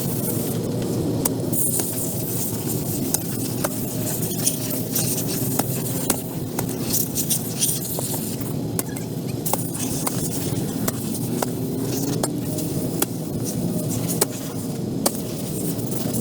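Pressure washer running steadily, its water jet hissing on the pavement, with scattered sharp clicks and taps.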